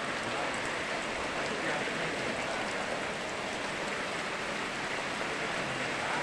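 Steady rain falling, with the constant rush of river water beneath it and scattered drops pattering.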